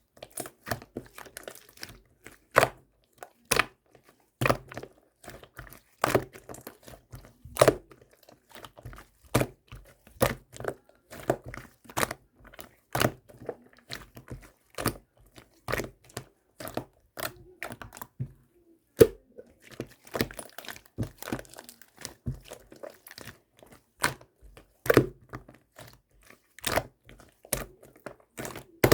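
Gold pearl slime with round clay balls on top, squished and pressed by hand: an irregular run of sharp pops and crackles, a loud pop every second or two with many softer crackles between.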